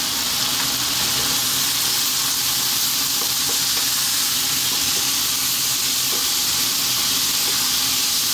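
Tomatoes, onions and ground spices sizzling in hot oil in a non-stick wok over a fairly high flame, stirred with a wooden spatula; a steady, even hiss.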